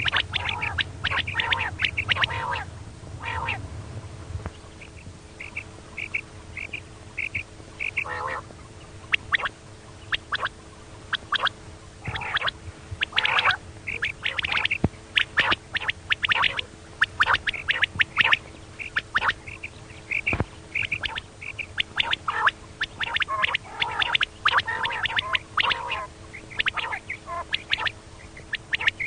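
Female common quail calling: rapid runs of short, sharp calls, repeated in dense bursts with brief pauses, over a faint steady hum.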